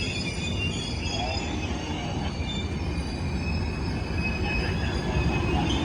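Amtrak passenger cars rolling slowly past on the rails: a steady low rumble with several steady high-pitched wheel squeals over it.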